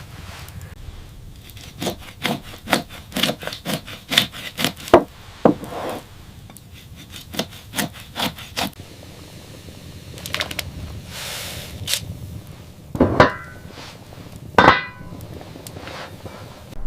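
Wood being worked with a tool: a run of quick knocks or strokes, about two a second, then a few more. A brief rushing swell follows, then two heavier strokes near the end.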